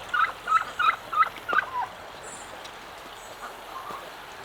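Domestic turkey giving a quick series of about seven short, high calls over the first two seconds, then falling quiet.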